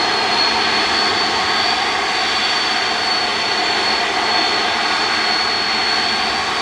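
Jet airliner's engines running steadily, a loud even rush with a thin high whine held at one pitch.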